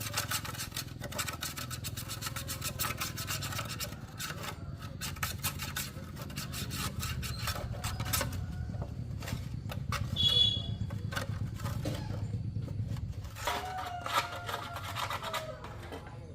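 Rapid, repeated scraping and scrubbing strokes of hand work on parts, over a low steady hum, with a short high squeak about ten seconds in.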